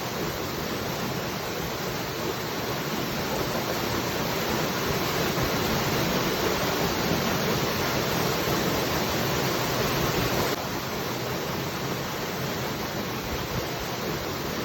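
Waterfall: a steady rush of falling water. It swells a little in the middle, then drops abruptly to a slightly lower level about ten and a half seconds in.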